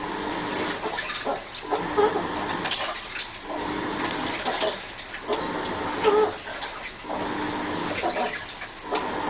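Washing machine agitating its load, swishing water back and forth in strokes that repeat about every two seconds. Each stroke carries a strange squeaky, whining tone.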